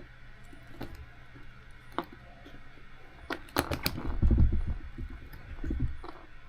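Small clicks and knocks of parts and tools being handled on a workbench during an RC car rebuild. A quick run of sharp clicks comes about three and a half seconds in, followed by a couple of seconds of low bumps and rustle.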